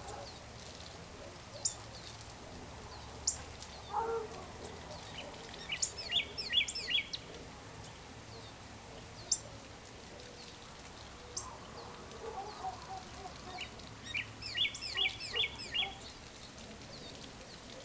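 Several birds calling at dusk: single sharp, high chirps every few seconds, two quick runs of repeated song notes, and a few lower calls.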